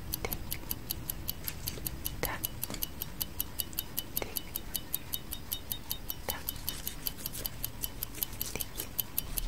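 Clock-style tick-tock sound effect of a countdown timer: a fast, even run of short high ticks, with a softer, lower sound about every two seconds.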